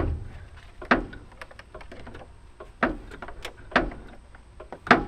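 Sharp metallic clicks, five in all at roughly one-second intervals, with faint ticks between them, as a ratchet turns the dry-sat BMW M10 four-cylinder engine over by hand.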